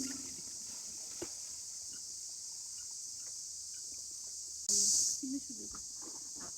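Crickets chirring in a steady high-pitched chorus, which swells louder briefly about five seconds in.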